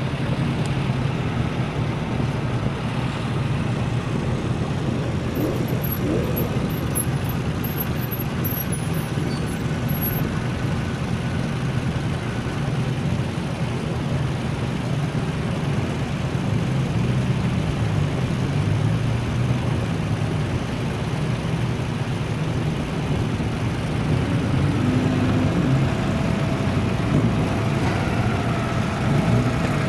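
Classic car engines running and driving past, a continuous low engine drone mixed with traffic noise.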